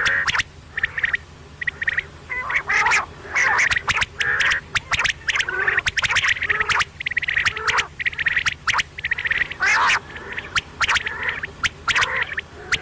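Quail (batair) calling over and over: a busy run of short, harsh notes with sharp clicks between them.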